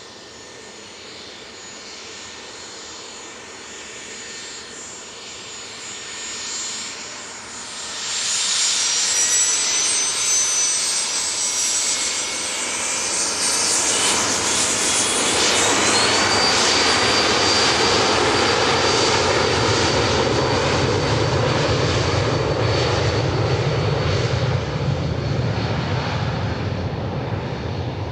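Cessna 510 Citation Mustang's twin Pratt & Whitney PW615F turbofan engines on departure: faint at first, turning loud about eight seconds in with a high whine, a whine rising in pitch about halfway through, then steady loud jet noise with a deep rumble that eases a little near the end.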